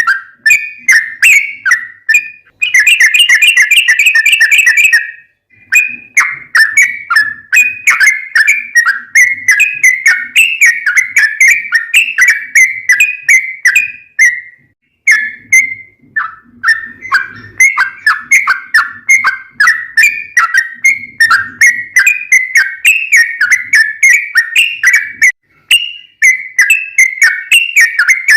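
Yellow-vented bulbul (trucukan) singing a long, fast run of repeated chattering notes, with a very rapid trill about three seconds in and brief pauses about five and fifteen seconds in.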